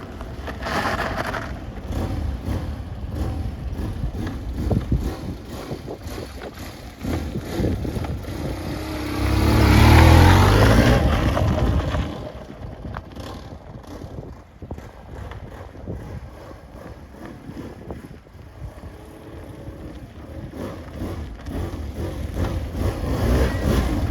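BMW R1100RT's air/oil-cooled boxer twin engine running on a test ride, with wind noise. It grows loudest about ten seconds in, then drops away and slowly builds again.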